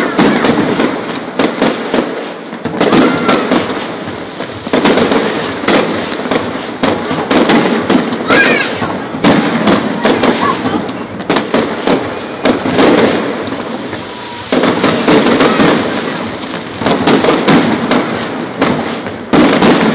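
Fireworks display: aerial shells bursting in a dense, irregular barrage, loud bangs following one another in quick succession without a pause.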